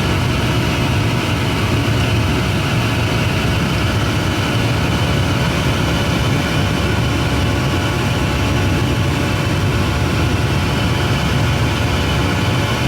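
Steady cabin noise of an airliner in flight: a constant low engine hum and rush of air, with a few faint steady tones over it that do not change.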